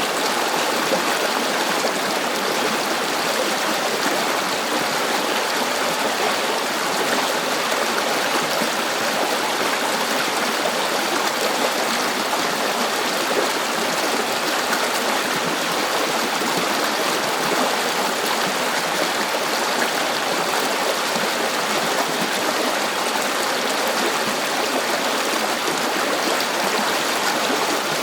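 River water flowing steadily over rocks: a constant rushing and babbling with no breaks.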